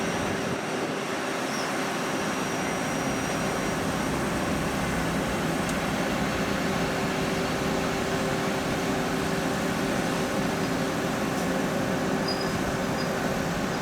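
A passing train running by at a steady level: an even rush of wheel and rail noise with a steady low hum.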